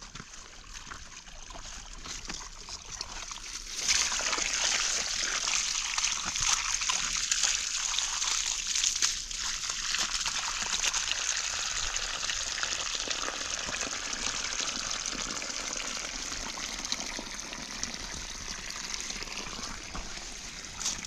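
Water running in a steady trickle, starting suddenly about four seconds in and easing off slightly toward the end.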